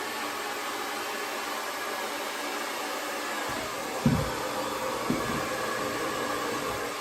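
Conair Testarossa 1875-watt AC-motor hair dryer running steadily. Two dull bumps about four and five seconds in.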